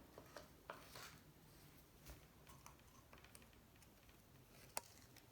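Near silence with faint, scattered light clicks and taps, and one sharper click near the end.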